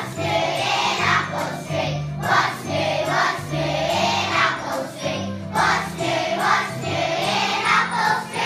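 A group of voices singing a song together over instrumental accompaniment with held bass notes.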